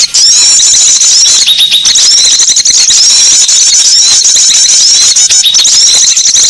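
A dense chorus of small songbirds, many high-pitched chirps and twitters overlapping and repeating rapidly without pause. It is a loud lure (pikat) recording made to call small birds in.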